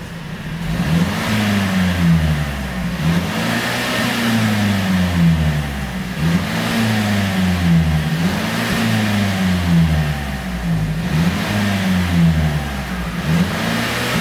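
Mercedes-Benz SLC250's turbocharged four-cylinder engine, running an ECU tune for exhaust pops, being revved up and dropping back again and again, about every one and a half to two seconds.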